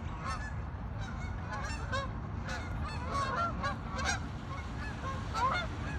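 A flock of Canada geese honking, many short calls overlapping one another without pause, over a steady low rumble.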